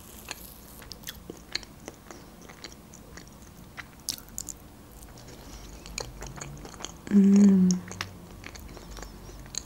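Close-miked mouth sounds of eating a soft cream-filled tartlet: small wet clicks and smacks of chewing. About seven seconds in comes a short hummed "mmm".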